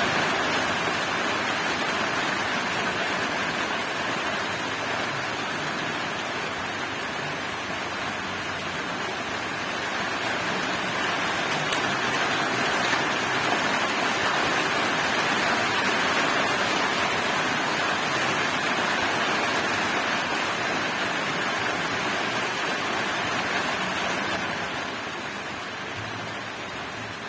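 Heavy rain pouring down, a steady hiss that eases a little, swells again, then tapers off near the end.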